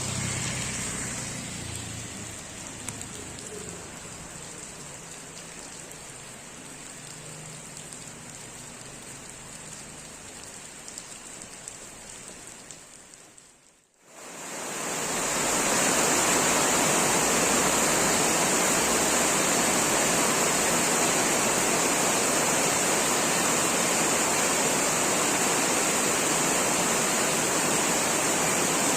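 Rain falling steadily at a moderate level. About halfway through the sound fades out to silence for a moment, then comes back as a much louder, steady rush of heavy rain.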